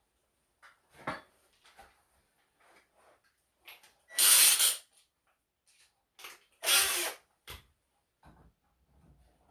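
A power tool, most likely a cordless screwdriver, runs in two short bursts about two and a half seconds apart, with lighter clicks and taps of handling around them.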